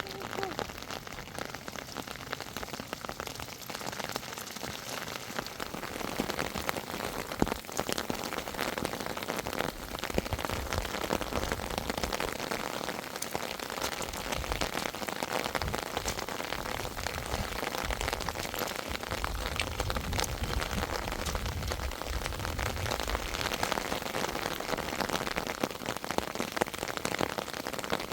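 Steady rain falling, a dense pattering of drops hitting a surface, with a low rumble coming and going in the middle of the stretch.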